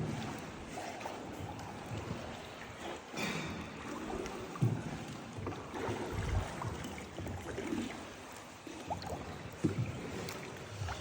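Small boat being paddled on water, with steady water noise and occasional knocks.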